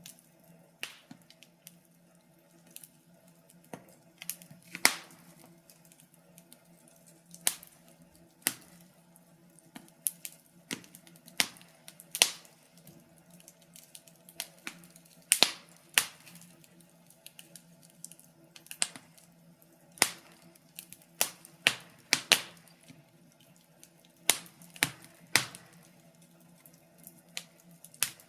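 Wood fire crackling in a fireplace: irregular sharp pops and snaps, some loud, scattered over a faint steady low hum.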